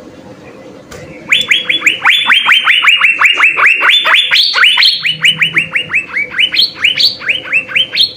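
Asian fairy-bluebird (cucak biru) calling in rapid series of sharp, down-slurred whistled notes, about four to five a second with short breaks, starting about a second in.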